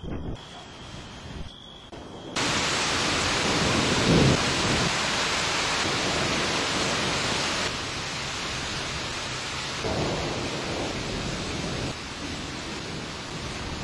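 Thunder rumbling over a steady hiss of noise, with the strongest roll about four seconds in and a weaker one around ten seconds. The hiss comes in suddenly a couple of seconds in.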